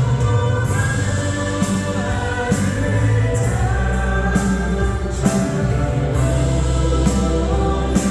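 Worship song sung over band accompaniment, with long held notes and a steady beat.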